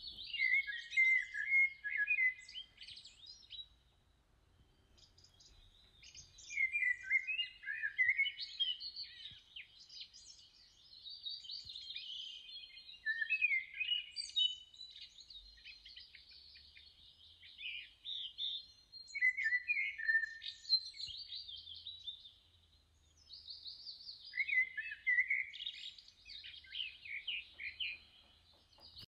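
Birds chirping and singing in quick, high phrases, coming in bouts with short lulls about four seconds in and again a little past twenty seconds.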